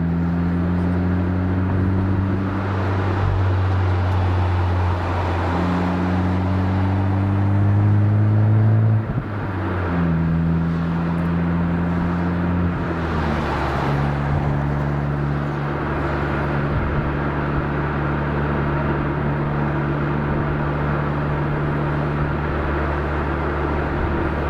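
Exhaust of a Honda Civic Type R (FK8) 2.0-litre turbocharged four-cylinder, with an RV6 catted downpipe, aFe front pipe and stock catback, heard at the tailpipe while driving. The engine note climbs gently under light throttle, drops at upshifts about nine and thirteen seconds in, then settles into a steady, lower cruising note.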